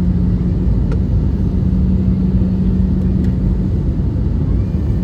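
Steady cabin drone of an Airbus A320-214 airliner: a loud, even rumble of engines and airflow, with a constant low hum running through it.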